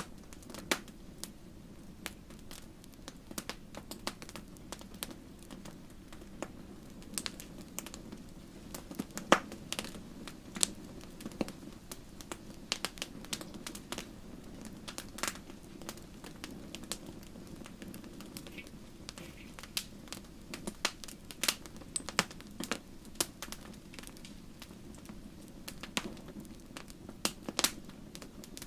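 Wood fire crackling: irregular sharp pops and snaps over a steady low rumble of the burning fire. The loudest snap comes about nine seconds in.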